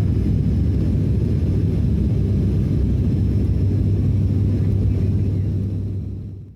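Airliner cabin noise in flight: a steady, loud low rumble of engines and airflow with a constant low hum, fading a little and cutting off suddenly at the end.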